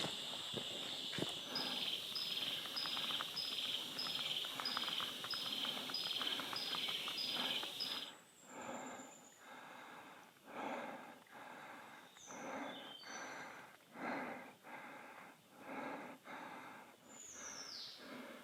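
Tropical forest ambience: a steady high insect buzz with a short high note repeating about twice a second, which cuts off suddenly about eight seconds in. Then a hiker's footsteps and breathing come about once a second, with a few brief high falling bird whistles.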